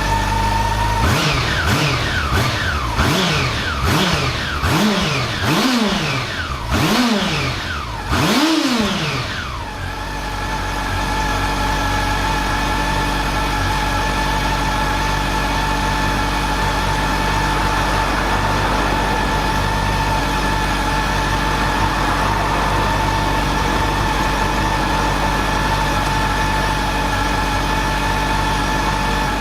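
Honda CB400 Super Four VTEC Revo's inline four-cylinder engine, heard through its stock muffler, idling, then blipped about seven times in quick succession, each rev rising cleanly and dropping back. It then settles into a steady idle.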